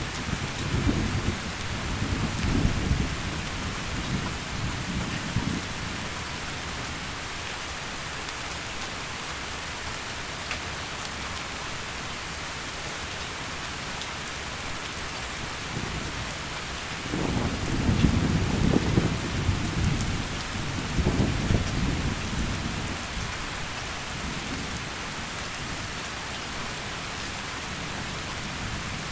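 Heavy rain falling steadily, with low rolls of thunder: one rumbling and dying away over the first few seconds, and another rolling in about seventeen seconds in and fading after some six seconds.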